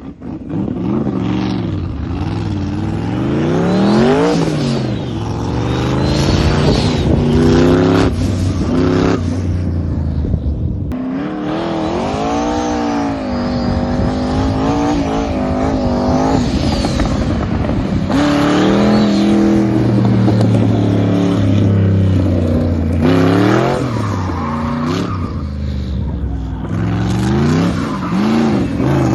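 LS-swapped BMW E36's 5.3-litre V8 revving hard and falling back again and again as the car is driven through an autocross course, with a brief drop in sound about eleven seconds in and faint tyre squeals in places.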